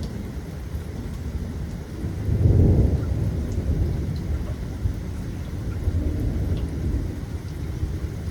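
Rolling thunder rumbling low and deep, swelling to its loudest about two and a half seconds in and then rolling on more softly, with rain falling.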